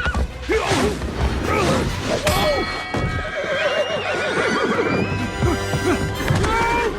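A horse whinnying again and again with hoofbeats, over background music.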